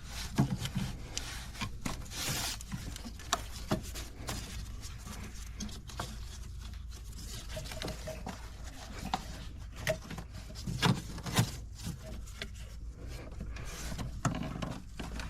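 Hand work under the hood of a car: scattered light clicks, knocks and rubbing as parts, connectors and tools are handled, with a few sharper knocks, two close together about eleven seconds in, over a steady low hum.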